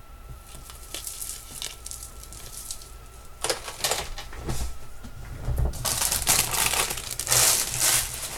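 Jewelry packaging crinkling and rustling as it is handled and opened, light at first and much louder through the second half.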